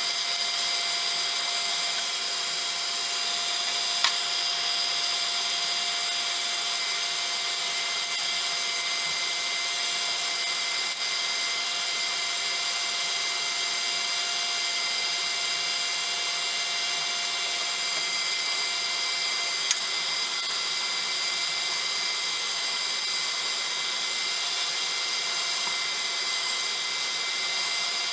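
Handheld heat gun running steadily, its fan motor whining over a constant rush of blown air, with a couple of small clicks.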